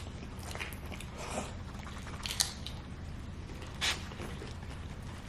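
Close-up eating and food-handling sounds: a few short crunches, clicks and rustles, the sharpest about two and a half seconds in and another about four seconds in, over a steady low hum.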